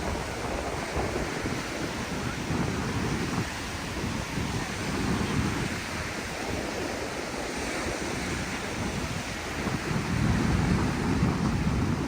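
Sea surf washing onto a sandy beach, with wind buffeting the microphone in a low rumble; the surge grows louder about ten seconds in.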